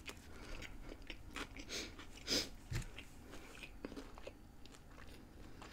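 Close-miked chewing of a mouthful of McDonald's McChicken burger: soft crunching and wet mouth clicks, with one louder click a little past two seconds in.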